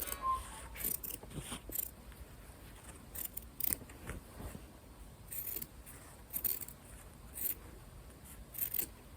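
Scissors cutting around the edge of a piece of layered fabric: a series of short, separate snips with brief pauses between them.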